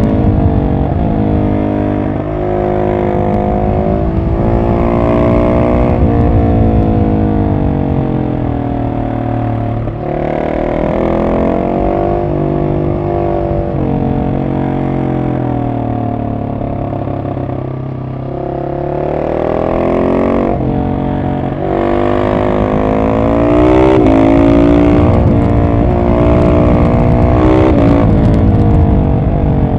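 Husqvarna 701 SM single-cylinder engine through an Arrow exhaust with the catalytic converter removed, revving up and easing off again and again as the bike is ridden. The revs sink lowest a little past the middle, then build again and stay high to the end.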